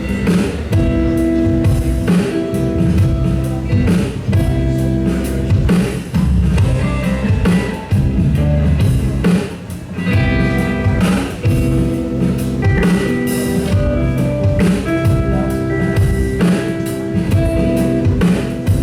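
Live band music: guitar chords played over a drum kit beat.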